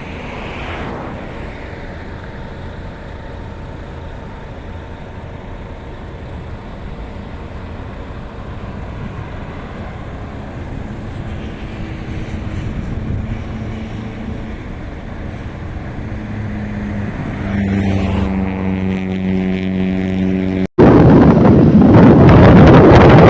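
Scania V8 truck engine running on the road under a steady rush of road and wind noise, its note slowly rising and growing clearer near the end. An abrupt cut about three-quarters of the way through brings in a much louder rush of wind and engine.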